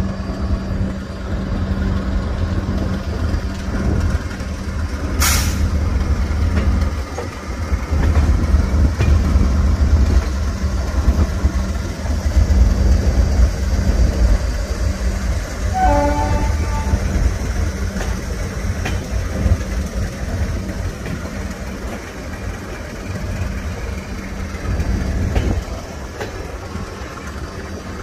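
Passenger train running over the rails, heard from aboard the coach: a steady rumble of wheels on track with a single sharp knock about five seconds in. A short horn note sounds about sixteen seconds in.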